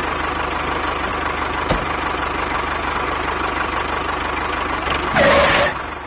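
Small DIY model tractor's motor and gears running steadily as it drives across sand pulling a trolley, with a short click a little under two seconds in and a louder rush for about half a second near the end.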